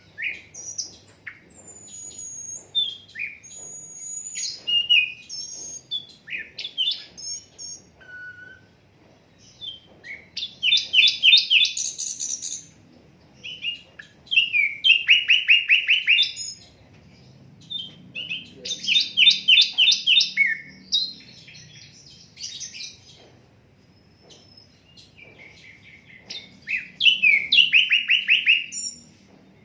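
A sikatan londo flycatcher singing a varied song of short whistled and chirped notes. Several times it breaks into loud runs of rapidly repeated chirps, each lasting about two seconds.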